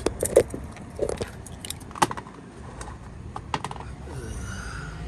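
Hand tools clinking and rattling against metal during an ATV oil change: a series of irregular sharp metallic clicks, some ringing briefly, with a louder clink about two seconds in.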